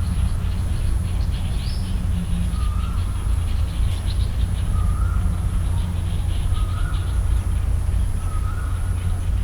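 Birds chirping: rapid trains of high chirps and a short lower call repeated about every second and a half. Underneath is a steady low rumble, the loudest part of the sound, and a faint high pulsing tone.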